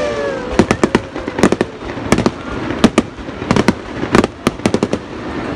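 Aerial fireworks bursting overhead: volleys of sharp bangs in quick clusters, a fresh cluster about every half second to second.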